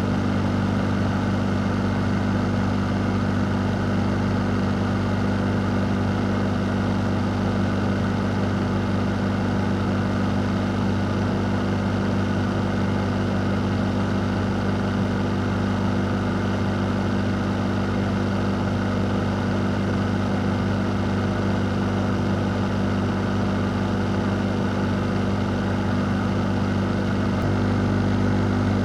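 Fan running steadily: a constant low motor hum with a couple of steady tones over an even rush of moving air, getting slightly louder near the end.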